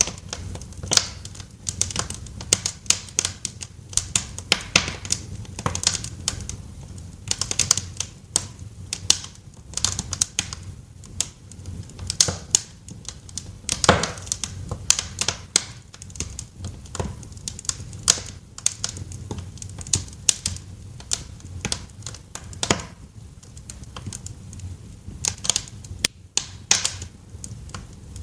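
Fire crackling in a fireplace: irregular sharp pops and snaps, several a second and of varying strength, over a steady low rumble.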